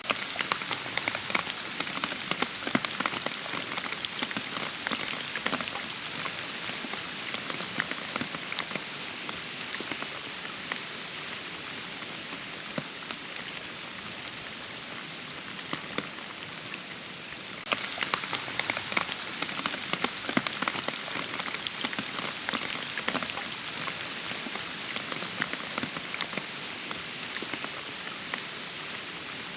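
Steady rain with many individual drops ticking. It suddenly gets louder a little past halfway through.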